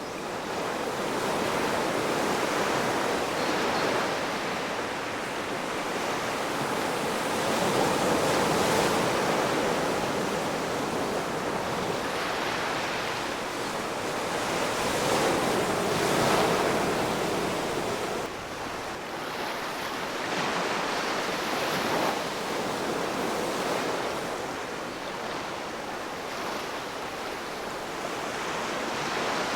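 Ocean waves breaking and washing on the shore: a continuous surf hiss that swells and eases as each wave comes in, with the strongest surges about a third and about halfway through.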